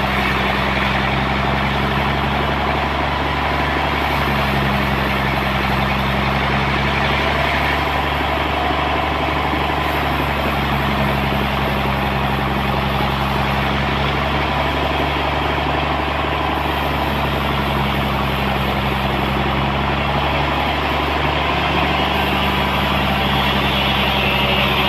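Homemade sawmill's engine running at a steady speed, with a continuous mechanical hum and whir.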